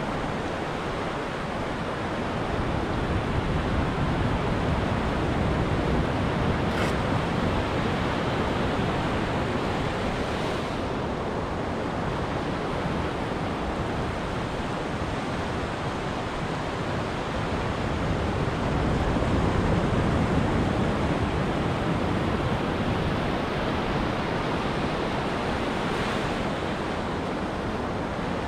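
Ocean surf breaking on a beach, a steady rush that swells louder twice, about three seconds in and again near twenty seconds, as waves come in.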